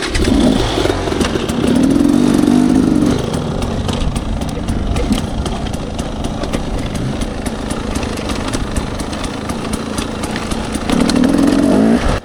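Dirt bike engine running while riding a rough trail, with louder throttle pulls about two seconds in and again near the end. Many short clicks and knocks sound throughout.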